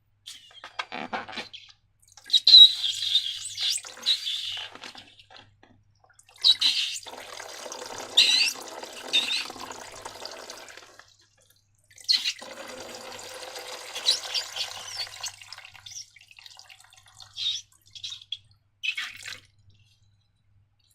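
Wet, sticky slime-making sounds in three spells of a few seconds each: liquid being poured or stirred and slime squelching, with sharp sticky clicks. A few short wet snaps follow near the end.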